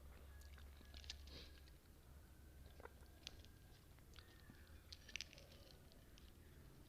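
Faint close-miked chewing of spicy noodles and kimchi, with a few sharp mouth clicks about one, three and five seconds in.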